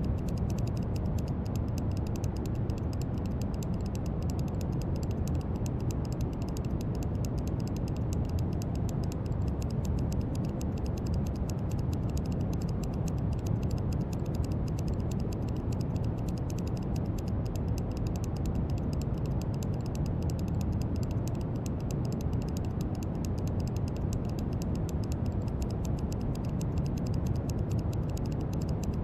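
Steady brown noise: an even, deep rushing hiss, strongest in the low end and dull in the highs, with no change in level.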